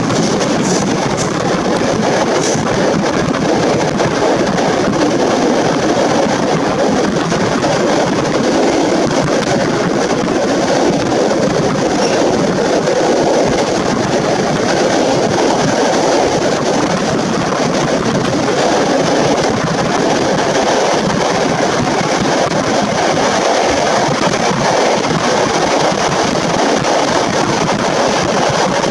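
Passenger train running at speed through a railway tunnel, heard from a carriage window: a steady, loud rumble of wheels on rail that does not change.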